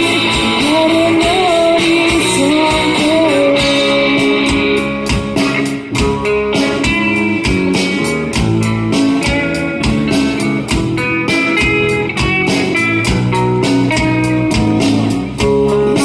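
Live rock band playing: a lead electric guitar with bending notes over bass, with drums hitting steadily from about four seconds in.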